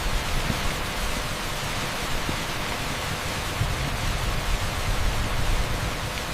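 Torrential rain pouring onto an asphalt street: a steady, dense hiss with a low rumble underneath.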